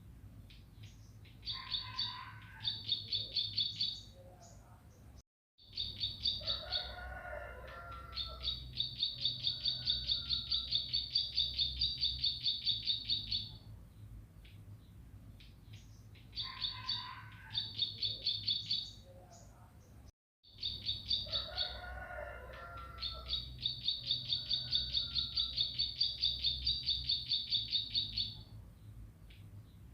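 Bar-winged prinia (ciblek pari) singing: long rapid trills of sharp chirping notes, about five a second, each led in by a few lower warbled notes. The same song phrase comes twice, and the sound cuts out completely for a moment before each, as in a looped recording.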